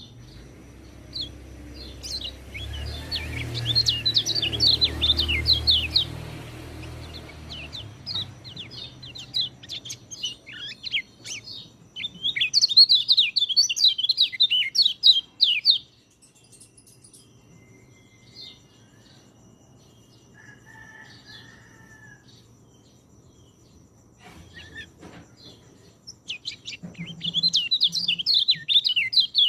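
White-eye (pleci) singing in fast, high twittering bursts of chirps: three long bursts with a quieter stretch in the middle. A low rumble runs under the first burst.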